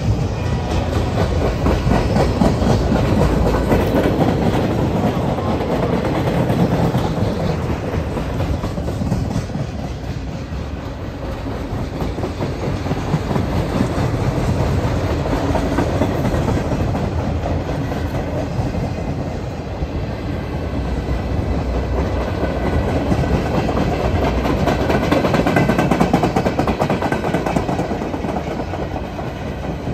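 Train running on rails: a continuous rumble with the clickety-clack of wheels over the rail joints, swelling and easing a few times.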